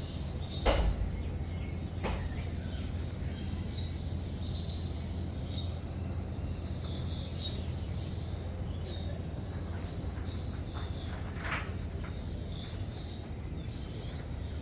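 Lories and lorikeets calling in an aviary, many short high chirps scattered through, over a steady low hum. A sharp knock about a second in, and two fainter ones later.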